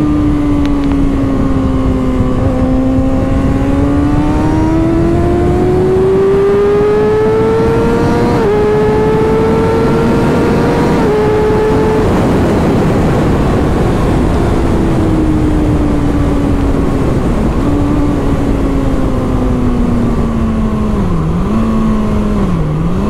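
Kawasaki inline-four sportbike engine under way with wind rush. The revs climb over the first eight seconds, drop sharply with upshifts about eight and eleven seconds in, then fall slowly as the rider eases off, with a few short dips near the end.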